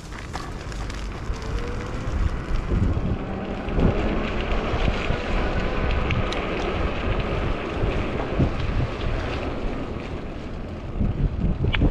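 Wind buffeting the microphone during a ride on a 20-inch fat-tyre e-bike, with the tyres hissing on a wet, icy road.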